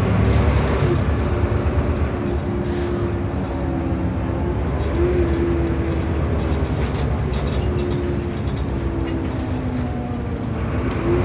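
Renault Agora S city bus heard from inside while under way: a low engine rumble with a steady droning whine over it that dips briefly a few times, the odd noise the bus makes.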